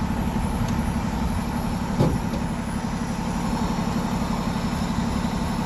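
A vehicle engine idling steadily with an even, rapid throb, and a brief thump about two seconds in.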